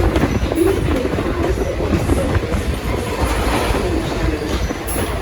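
V/Line train rolling past as it departs, a steady low rumble with clatter from the carriage wheels on the rails.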